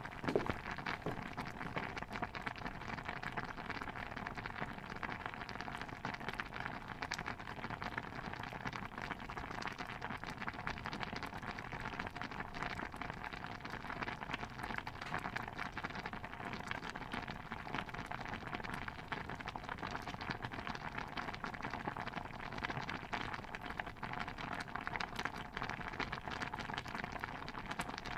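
Stew bubbling steadily in a pot: a dense, even patter of small pops, with one sharper knock just after the start.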